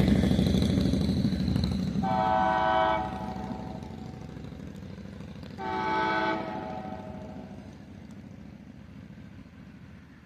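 Distant CSX freight locomotive horn sounding two blasts of about a second each, roughly three and a half seconds apart, over a low rumble that fades away.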